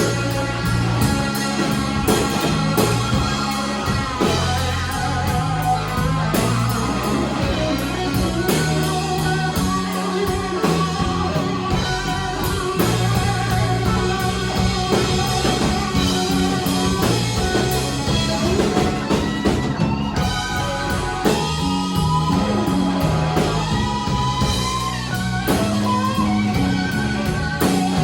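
Live electric blues band: electric guitar playing lead lines with bent, gliding notes over bass guitar and a drum kit.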